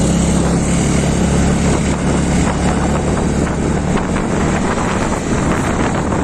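Honda Activa scooter's single-cylinder engine running steadily while the scooter is ridden, with wind rushing over the microphone.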